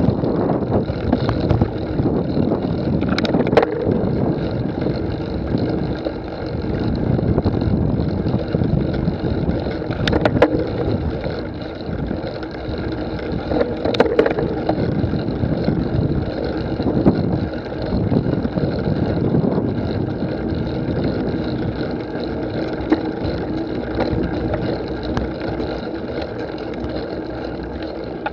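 Steady rumbling outdoor noise with wind on the microphone, broken by a few sharp clicks about three, ten and fourteen seconds in.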